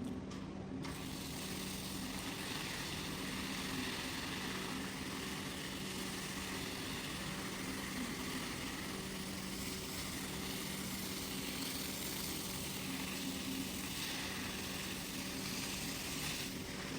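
Motorised carpet-cleaning machine running steadily: a constant low hum with an even hiss over it.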